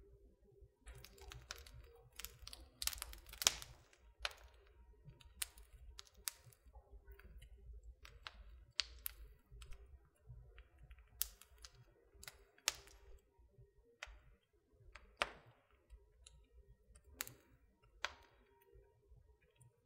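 Wood fire crackling in a fireplace: irregular sharp pops and snaps of burning wood, one every second or so with a cluster near the start, over a soft low rumble of the flames.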